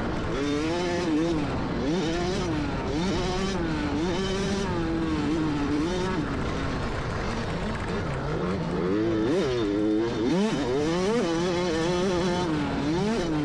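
Motocross dirt bike engine revving up and down continuously as the rider works the throttle and shifts through a lap, with a sharp rev and drop about nine to ten seconds in.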